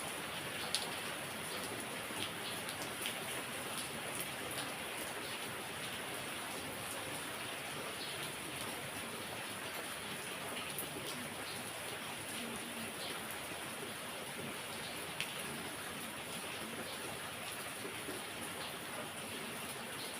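Heavy rain falling steadily, with many sharp drop hits scattered through the even hiss.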